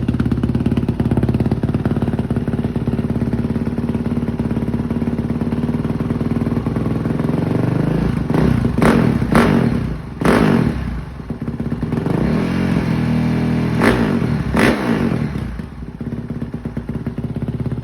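Honda CRF450R's single-cylinder four-stroke engine idling through its exhaust, then blipped: three quick throttle revs about halfway through and two more a few seconds later, settling back to idle between them.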